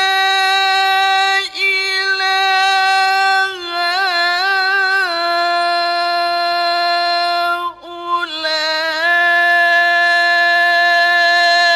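Male qari's voice in melodic Quran recitation (tilawah), holding long high notes on drawn-out vowels with quick wavering ornaments. There are brief breaks about a second and a half in and near eight seconds.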